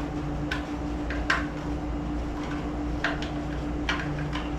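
Scattered light clicks and taps, about seven in all, from handling a new aftermarket distributor and its small parts, over a steady electrical hum.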